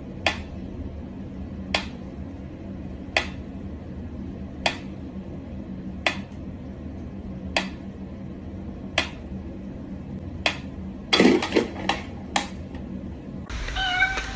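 Sharp clicks or taps repeating evenly about every second and a half over a low steady hum, then a quick flurry of several taps. Near the end a louder, different sound takes over.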